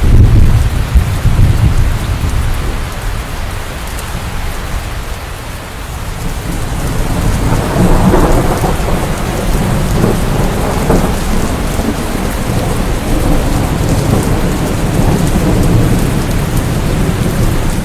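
Steady heavy rain with rolling thunder: a deep rumble at the start, then another one building from about halfway through and rumbling on.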